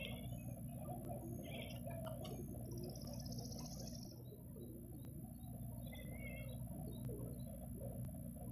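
A cat chattering at birds, with several short bird chirps and twitters at intervals over a steady low hum.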